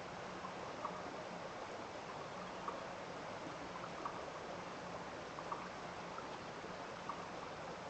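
Water running steadily in a small stream, with faint short plinks about once every second or so.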